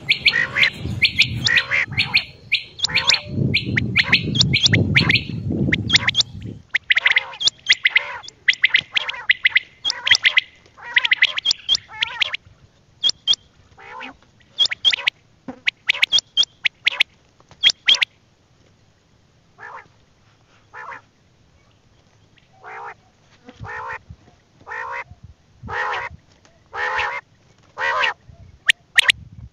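Quail calling: a long run of short, harsh repeated calls, coming thick and fast at first and then thinning to single calls about a second apart. A low rumble lies under the first six seconds.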